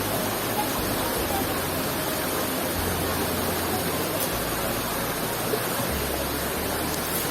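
Small forest waterfall rushing steadily, a constant even roar of falling water.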